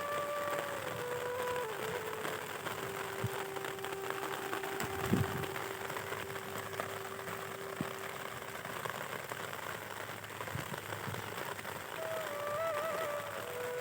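Heavy rain pouring steadily, with hailstones falling in it; one thump about five seconds in.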